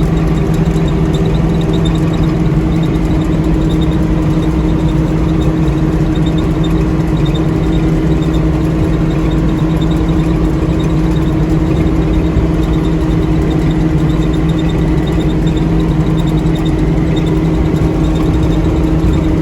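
Combine harvester engine running steadily at constant speed. A faint, high cricket chirping pulses on and off above it.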